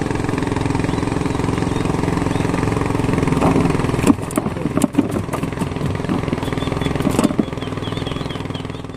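Small boat engine running steadily, with a few sharp knocks and rattles about halfway through.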